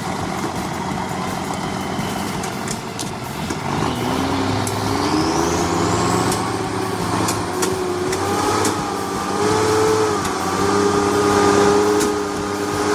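Log truck's diesel engine running under load, its pitch rising from about four seconds in and then wavering up and down, with a faint rising whine and a few sharp clicks.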